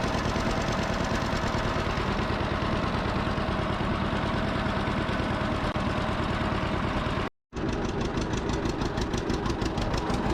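Farm tractor engine running steadily under way in the mud. About seven seconds in the sound cuts out for a moment, then the engine resumes with a crisper, evenly pulsing beat.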